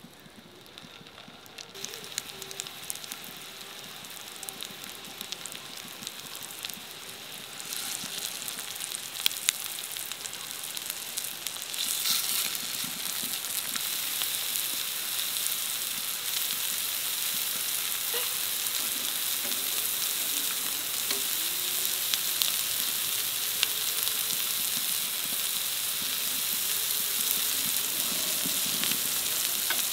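Chicken burger patties sizzling in shallow oil on a flat nonstick pan, with small crackles. The sizzle grows louder in steps over the first dozen seconds as patties are laid in, then holds steady.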